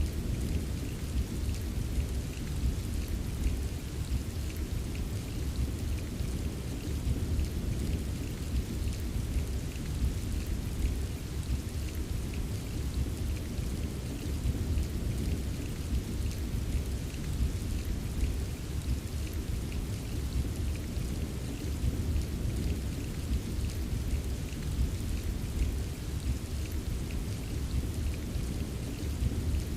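Steady rain with a continuous low rumble of distant thunder underneath and fine patter of individual drops.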